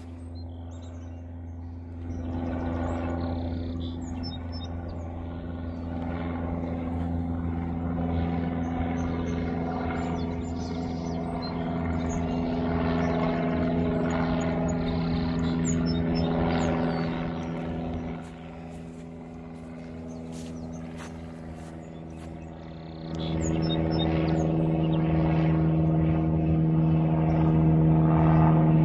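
An engine running steadily at a distance. It drops in level about 18 seconds in and comes back louder and at a different pitch about 23 seconds in. Small birds chirp over it.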